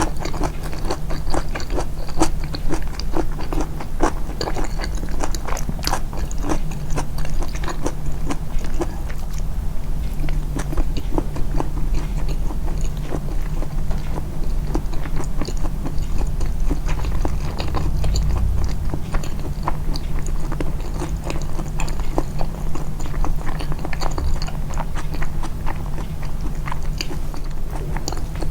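Close-miked, amplified eating sounds: continual chewing and biting with many short wet clicks and smacks, over a steady low hum.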